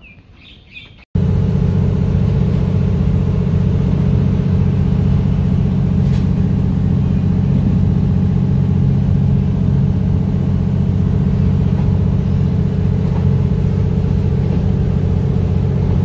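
A few faint bird chirps, then about a second in a sudden cut to the loud, steady rumble of a moving passenger train heard from inside the carriage.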